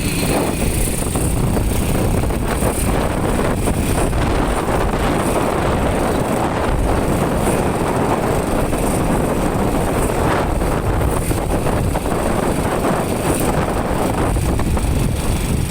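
Motorcycle being ridden: a steady rush of wind on the microphone mixed with engine and road noise.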